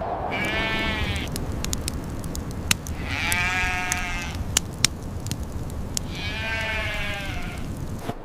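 An animal calling three times, each a wavering call about a second long, over a steady low rumble with scattered sharp clicks.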